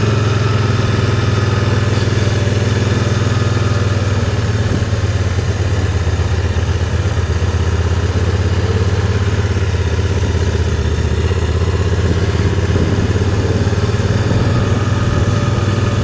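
Can-Am Spyder three-wheeled motorcycle's three-cylinder engine running steadily at low speed, a constant low drone that holds its pitch without revving.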